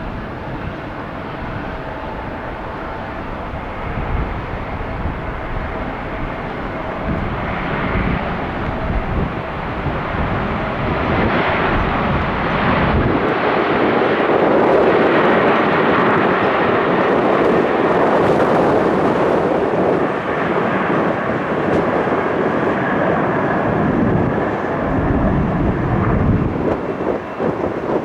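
Boeing 737-800 jet taking off, its CFM56 turbofans swelling to a loud peak about halfway through, then easing off.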